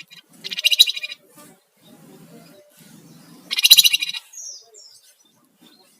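Flamboyan (Javan fulvetta) singing: two loud, rapid rattling trills of about half a second each, one about half a second in and one after about three and a half seconds. A couple of short, high, down-slurred whistles follow the second.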